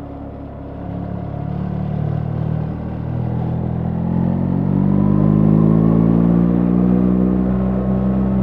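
BMW R 1300 GS 1300 cc boxer-twin engine pulling under acceleration, its note rising steadily in pitch and loudness for about four seconds, then holding at a steady cruise.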